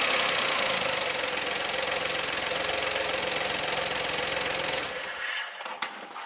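Mitsubishi i's small three-cylinder engine idling steadily, then switched off about five seconds in, followed by a sharp click.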